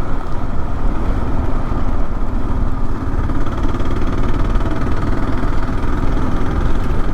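Kawasaki KLR650's big single-cylinder engine running steadily while the motorcycle is ridden, with rush of wind.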